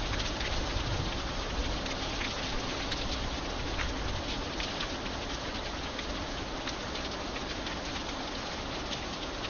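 Steady rain falling, with individual drops tapping sharply here and there.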